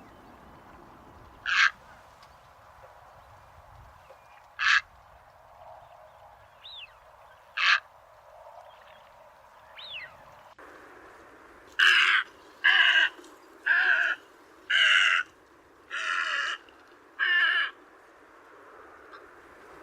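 Bird calls: in the first half, single short calls about every three seconds. Then the background changes abruptly and a run of six louder calls follows, about one a second.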